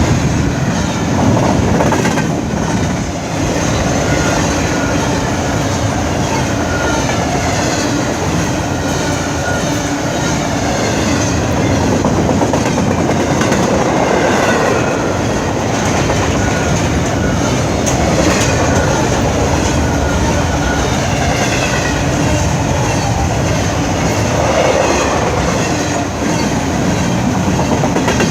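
Norfolk Southern freight train rolling past, a steady loud rumble of cars on the rails.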